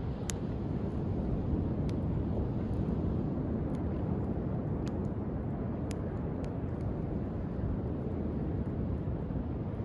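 Driftwood campfire crackling with a handful of sharp pops, over a steady low rush of sea waves.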